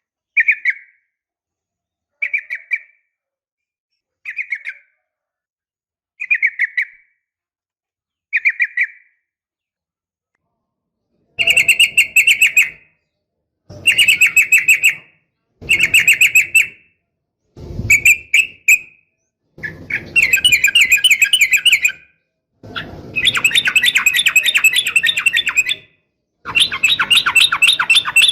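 Yellow-vented bulbul calling. First come short chirps about every two seconds, then from about eleven seconds in, louder rapid trills in bursts of one to three seconds, which the uploader presents as a female calling a male.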